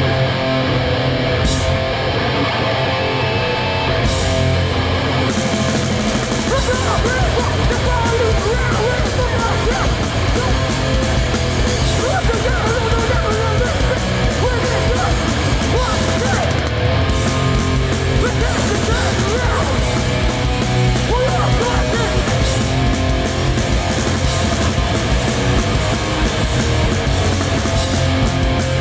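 Hardcore punk band playing live at full volume: distorted electric guitars, bass and drums in a loud, dense, continuous wall of sound.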